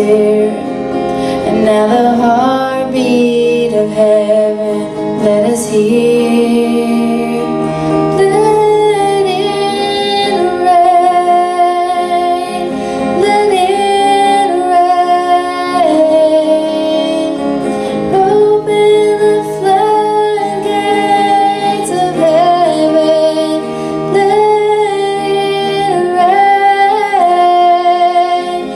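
A woman singing a song, accompanied by guitar.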